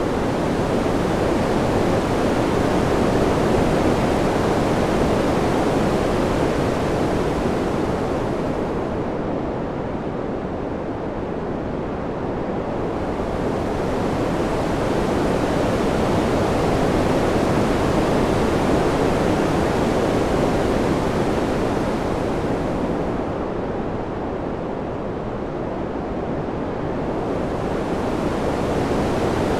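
Steady wind sound, an even rushing hiss that swells and eases in slow waves about fourteen seconds apart. It dips twice, and the high part of the hiss dulls at each low point.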